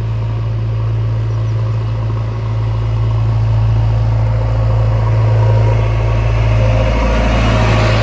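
Diesel engine of a heavy working machine running steadily with a low drone, getting louder and busier in the last couple of seconds.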